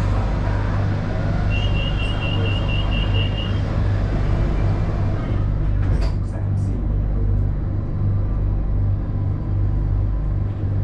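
Inside a BTS Skytrain car: the train's steady low rumble and hum. About two seconds in, a quick run of high electronic beeps, about four a second, lasts roughly two seconds.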